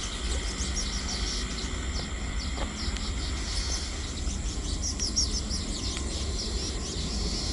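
Small birds chirping in quick, overlapping calls over a steady high insect drone, with a low rumble underneath.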